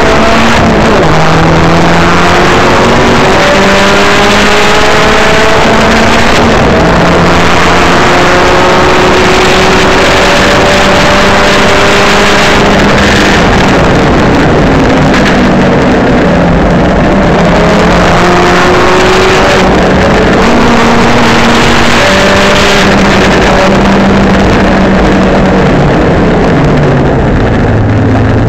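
Tuned Saab 9-3 race car's B207 turbocharged four-cylinder engine under hard acceleration, the revs climbing repeatedly and dropping back at each gear change. Near the end the revs fall and settle to a lower, steadier note.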